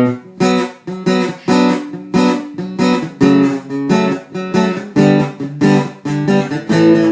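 Acoustic guitar strumming chords in a steady rhythm, about two to three strokes a second: the instrumental intro of a sertanejo song.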